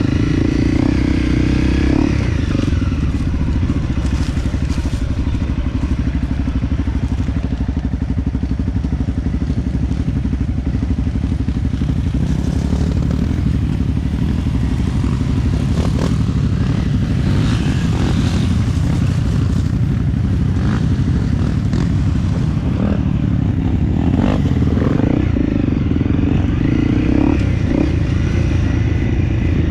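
Dirt bike engine running steadily under way on an off-road trail, with scattered knocks and clatter from the bike over rough ground.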